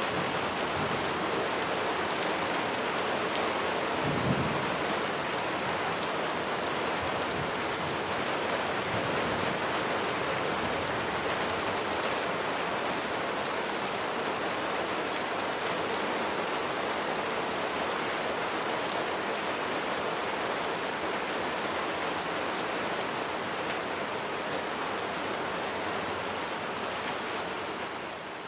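Steady heavy rain falling on surfaces, with the sharp ticks of individual drops throughout and a brief low thump about four seconds in.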